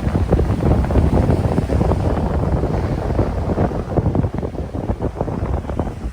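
Strong wind buffeting the microphone: a loud, uneven low rumble with rapid gusty bumps.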